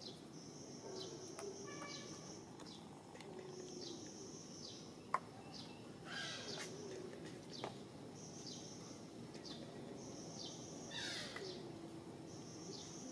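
Birds calling: repeated high chirping phrases about a second long, a few falling calls, and one sharp click about five seconds in.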